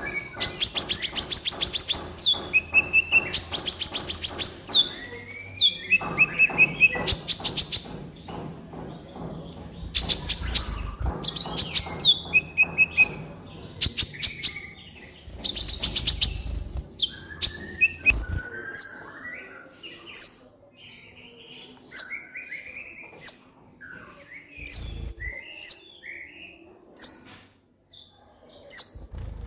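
Olive-backed sunbird (kolibri ninja) singing: fast trilled runs of sharp, high chirps. After about eighteen seconds these give way to single chip notes spaced about a second apart.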